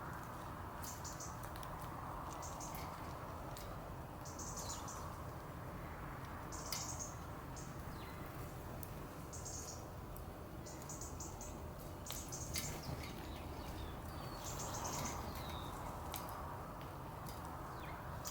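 Small garden birds chirping: short high chirps every second or two over a steady low outdoor background hum, with scattered sharp clicks.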